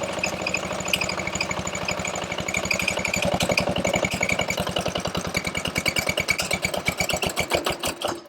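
Old small diesel generator engine running, brought back to life after sitting unused. Over the last few seconds its firing strokes spread apart as it slows, and near the end it stops abruptly.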